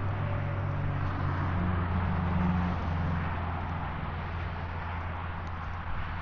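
Vehicle engine running at a steady idle, with a slight rise in pitch about two seconds in.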